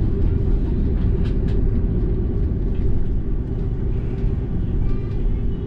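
Steady low rumble heard inside the cabin of an Airbus A330-300 airliner, with a few faint clicks.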